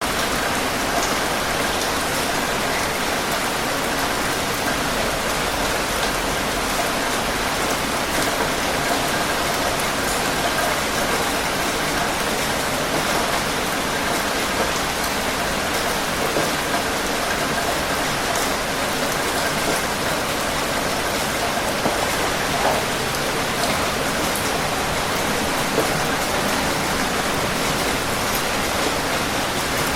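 Steady heavy rain falling, an even hiss of rain with scattered individual drop ticks.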